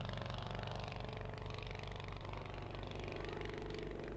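Granger Archaeopteryx's two-cylinder aero engine running steadily, a fast even beat.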